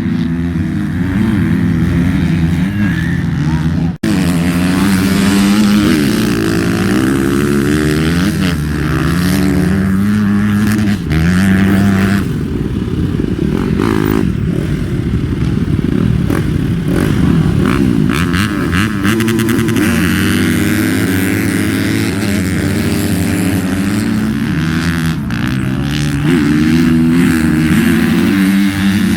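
Motocross motorcycle engines running on the track, revving up and down as the riders shift and throttle, with more than one engine heard at once.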